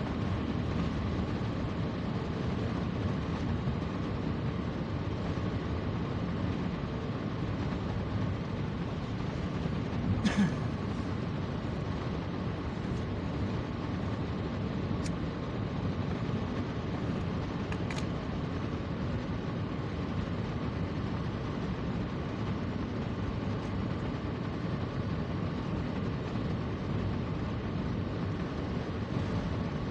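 Steady road and engine noise of a moving vehicle, with a short knock about ten seconds in.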